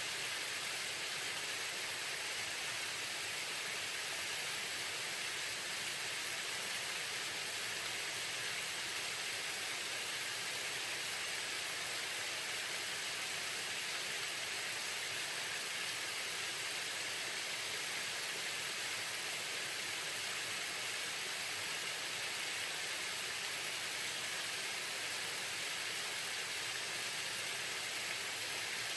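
Waterfall: water falling and splashing in a steady, even hiss.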